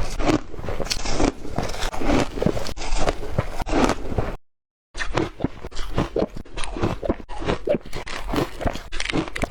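Ice being chewed: rapid, continuous crunching. The sound cuts out completely for half a second about halfway through, then the crunching resumes in more separate bites.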